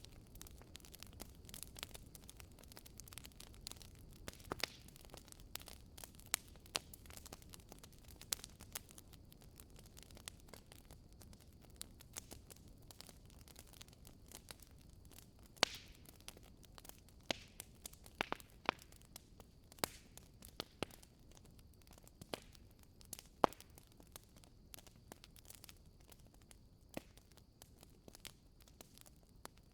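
Wood campfire crackling: frequent sharp, irregular pops and snaps over a soft hiss.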